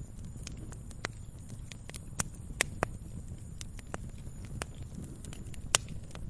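Campfire crackling: wood popping and snapping in irregular sharp cracks over a low steady rumble, with one louder snap near the end.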